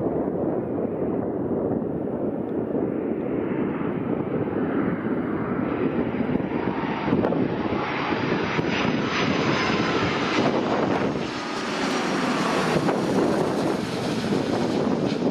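Jet airliner engines growing louder and brighter as the plane comes close, fullest near the end, with a faint whine over a steady rumble of wind on the microphone.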